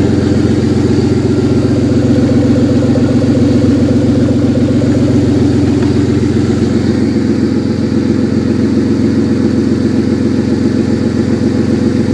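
Audi A6 C5's 2.8-litre V6 engine (code APR) running steadily at idle, with an even, unchanging note.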